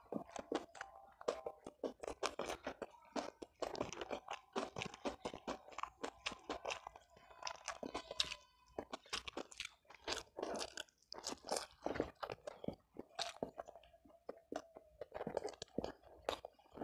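Close-miked chewing of a mouthful of rice and side dishes: wet smacking and crunching, heard as a dense run of quick irregular mouth clicks.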